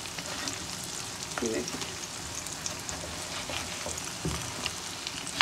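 Egg-filled pastry parcels sizzling and crackling in hot frying oil in a pan, with a slotted spoon working among them; a single low knock a little after four seconds in.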